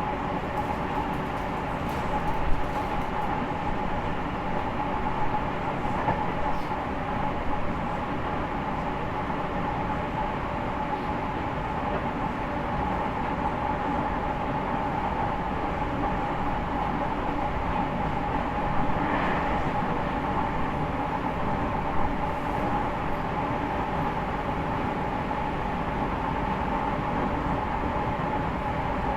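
Running sound inside the motor car of an E501 series electric train with a Toshiba IGBT inverter, moving at a steady speed. Steady rail and wheel noise under an even whine, with a couple of short knocks from the track.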